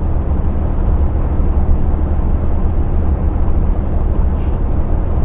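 Steady low rumble of a truck's diesel engine and road noise, heard from inside the cab while driving.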